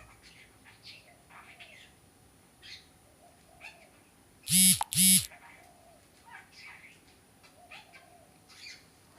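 Budgerigar chattering softly in short scattered chirps and warbles. About halfway through, two loud identical tones sound, each about half a second long, one straight after the other.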